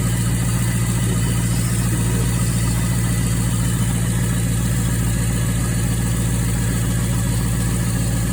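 2004 Pontiac GTO's 5.7-litre LS1 V8 idling steadily. Its exhaust leaks where bolts have broken off, which usually gives a ticking sound, but not a bad one.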